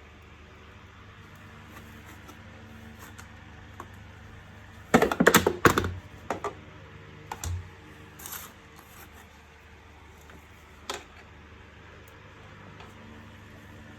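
Plastic parts of an Electrolux EASE C4 bagless vacuum cleaner handled and clicked together during assembly. A rapid cluster of clattering clicks comes about five seconds in, followed by a few single clicks over a low steady hum.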